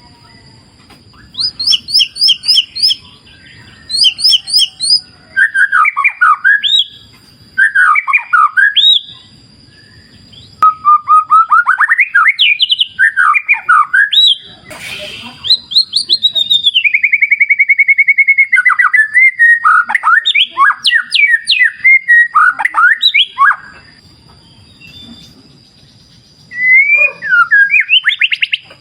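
White-rumped shama (murai batu) singing: a run of loud, varied phrases of fast repeated whistled notes, sweeping trills and chips, with short pauses between them. A steady high thin tone runs underneath, and a faint low rush of river water fills the pauses.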